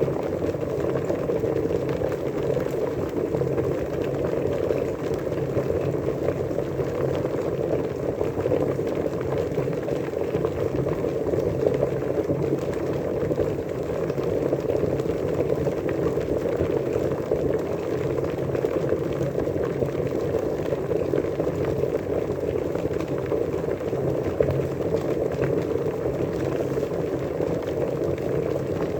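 Water at a rolling boil, a dense, steady bubbling that keeps on without change.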